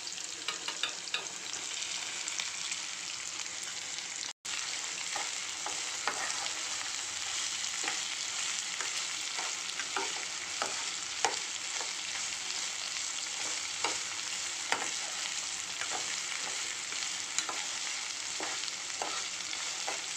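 Chopped okra sizzling in hot oil with onions in a frying pan, stirred with a metal slotted spoon that clicks and scrapes against the pan now and then.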